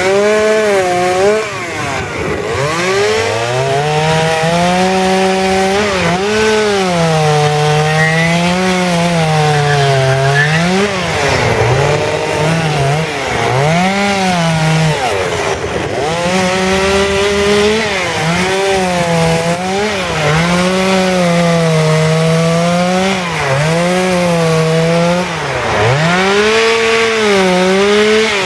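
Petrol chainsaw cutting into wood. The engine pitch dips and recovers every second or two as the chain bites and is eased off.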